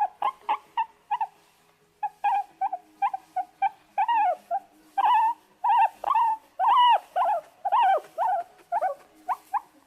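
Rat squeaking: a rapid run of short, high squeaks that arch up and down in pitch, several a second, with a brief pause near the start.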